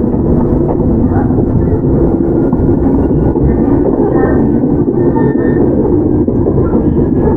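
Toyama Chiho Railway 17480-series electric train (ex-Tokyu 8090 series, field-chopper control) running, heard from inside the car: a steady rumble of wheels on rail with a faint, even motor hum.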